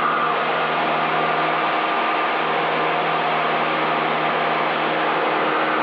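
Cessna 172's engine and propeller at full climb power just after takeoff, a steady drone with a constant, unchanging pitch.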